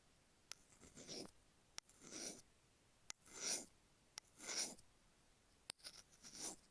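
A stainless steel ear pick scraping the rough grooves of an iPhone earphone microphone, close up. There are five strokes about a second apart, each starting with a small click of metal on plastic and then a short gritty scratch.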